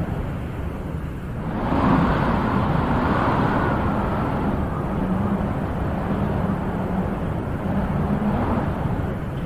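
Wind blowing in gusts, a rushing noise that swells sharply about two seconds in and then slowly eases.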